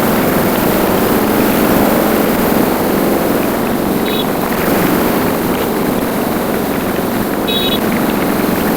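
Motorcycle riding, its engine and wind noise on the microphone making a steady, loud rush. Two short high tones come through about four and seven and a half seconds in.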